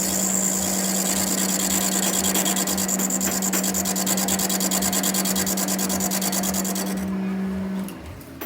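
A workshop machine tool runs with a steady hum and a fast, even rubbing or scraping rhythm as metal is worked, then winds down and stops near the end.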